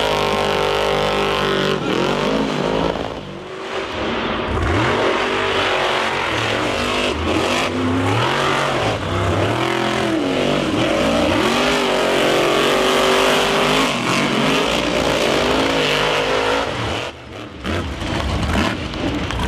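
Monster truck engine revving hard, its pitch climbing and falling again and again as the throttle is worked, with a couple of brief drops off the throttle.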